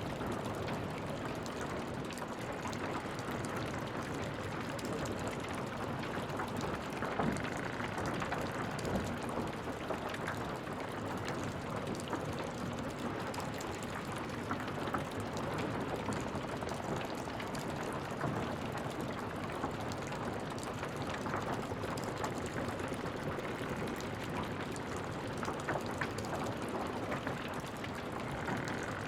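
Wood fire in a fireplace crackling, a steady hiss dotted with many small pops and a few louder snaps.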